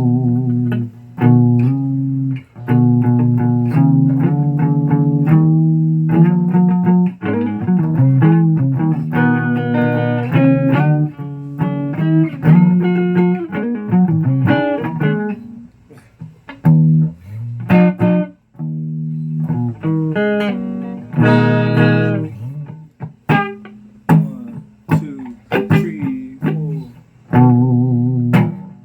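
Guitar played solo: a loose run of plucked notes and chords with a few short pauses.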